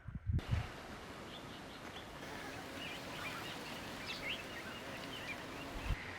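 Steady outdoor hiss with scattered short bird chirps. There are low thumps in the first half second and one more near the end.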